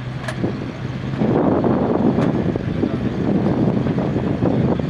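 Chevrolet G-506 1½-ton truck's straight-six engine running steadily, then growing much louder and rougher about a second in as the truck drives off.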